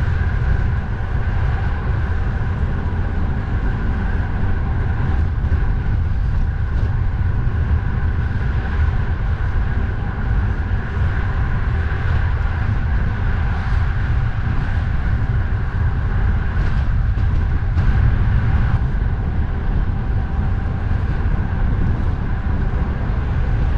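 Steady heavy wind rumble on the microphone of a camera on a moving bicycle, with continuous road and traffic noise beneath it.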